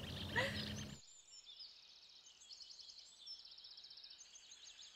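Small birds chirping and giving fast, rattling trills, high-pitched and faint. A louder background noise with a low hum cuts off abruptly about a second in.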